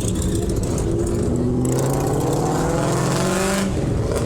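A car engine accelerating, its pitch climbing for about two and a half seconds over a steady low engine rumble, then cutting off sharply about a second before the end.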